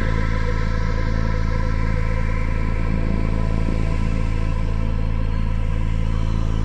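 Dark ambient music: a deep, steady rumbling drone under several sustained held tones, without beat or rhythm.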